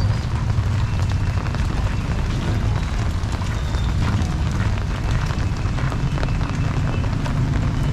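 Typhoon wind rumbling steadily on the microphone over the hiss of heavy rain, with a crackle of many small ticks.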